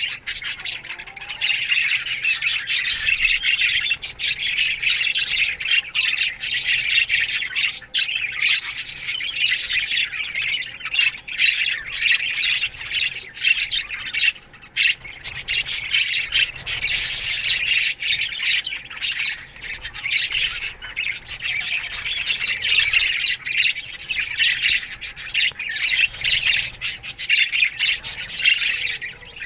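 A colony of budgerigars chattering and chirping together, a dense continuous mix of many birds' rapid warbles and squawks.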